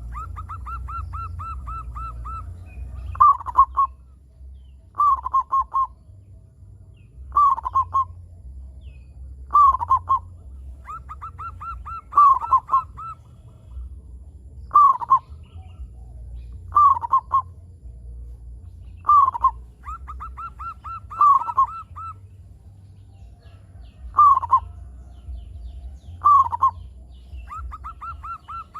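Zebra dove (perkutut) cooing: rapid rolling runs of short notes alternating with louder downward-sliding coos, repeated about every two seconds, over a steady low hum.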